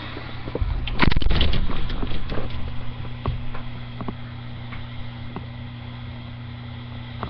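A small consumer firework goes off about a second in: a loud burst of hissing and crackling, then scattered pops that thin out over the next few seconds. A steady low hum lies underneath.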